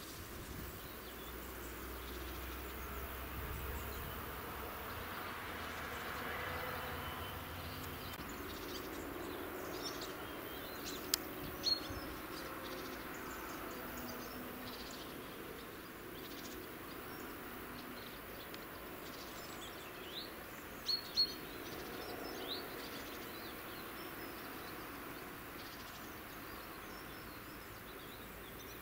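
Quiet garden ambience: faint steady background noise with a few brief, high bird chirps that come in two pairs about ten seconds apart.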